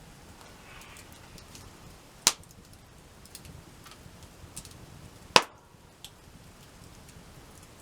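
Faint crackling of a wood campfire, with two sharp cracks about three seconds apart, the second the louder.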